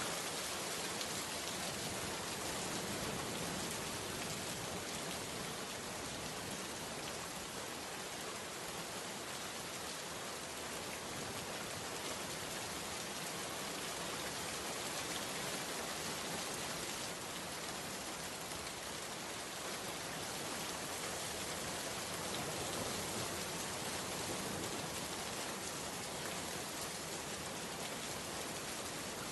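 Steady rainfall, an even hiss of rain with no change in strength.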